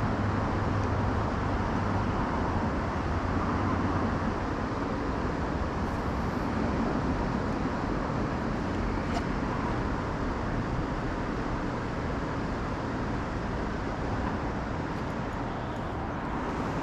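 Small boat's motor running steadily at trolling speed, a constant low hum under an even wash of noise.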